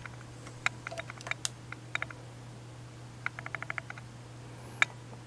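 Scattered light clicks and taps, with a quick run of about seven clicks a little past the middle, over a steady low hum.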